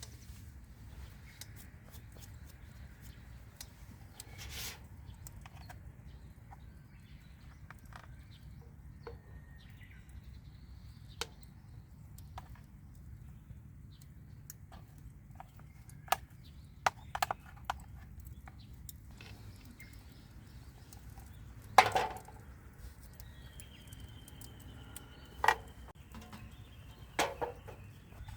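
Scattered knocks and clicks of camp gear being handled, the sharpest bunched in the second half, over a steady low rumble.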